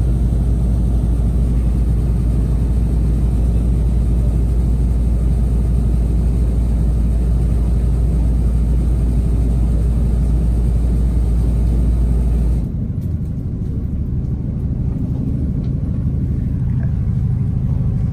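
Steady low rumble and running noise of a moving passenger train, heard from inside the carriage. About two-thirds of the way through, the deepest part of the rumble drops away abruptly and the sound becomes a little quieter.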